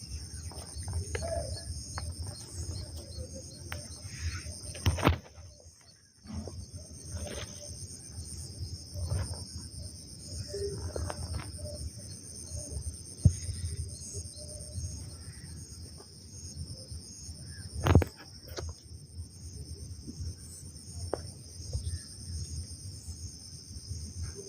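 A steady high-pitched insect chorus, with scattered short bird calls and a few sharp knocks, the loudest about three-quarters of the way through.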